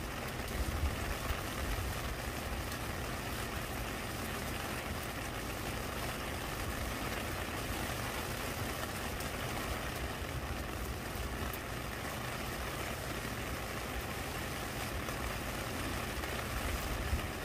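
Steady rain falling, an even hiss of drops with a few faint ticks, over a low rumble.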